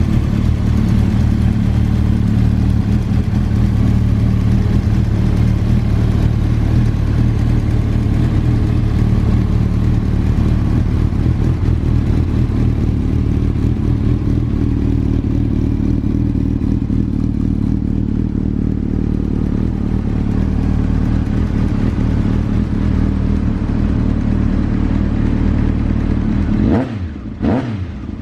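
Honda CB1000SF's inline-four engine running steadily through a WM carbon aftermarket muffler. Near the end the sound briefly dips and its pitch sweeps before it steadies again.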